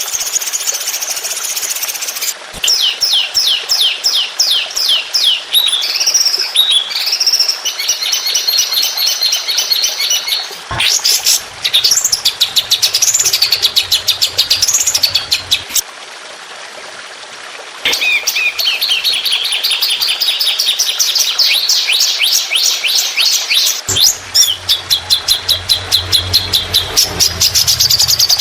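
Songbird training song ('masteran') of rapid, shrill trills and fast runs of repeated chattering notes, changing phrase every few seconds, with a brief lull a little past halfway.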